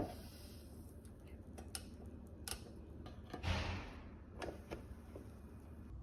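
Scattered light clicks and taps of small objects being handled, with a short rustling swish about three and a half seconds in.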